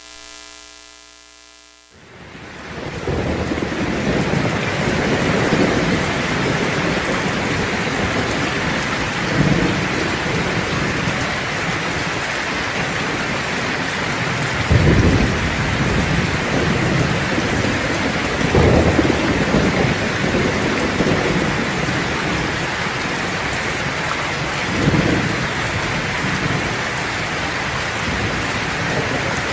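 Heavy rain falling steadily, with four low rolls of thunder, the strongest about halfway through. A brief fading tone comes before the rain sets in.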